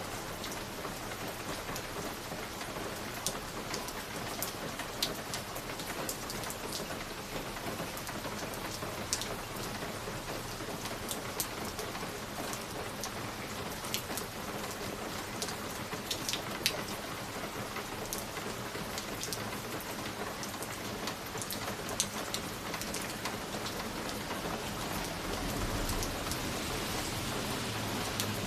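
Wood fire crackling in a fireplace: a steady hiss with scattered sharp pops and snaps at irregular intervals.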